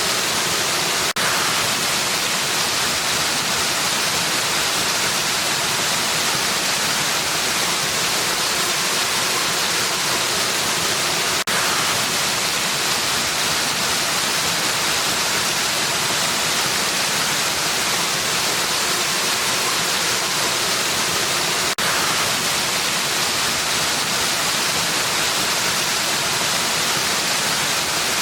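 Waterfall pouring in a steady, unbroken rush of water noise, with a brief tick and momentary dip three times, about ten seconds apart.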